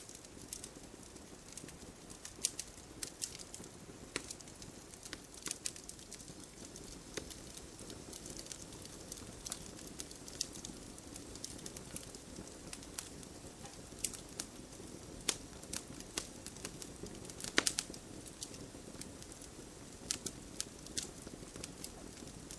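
Wood campfire burning with a soft steady hiss and irregular crackles and pops, a few sharper ones bunched about three-quarters of the way through.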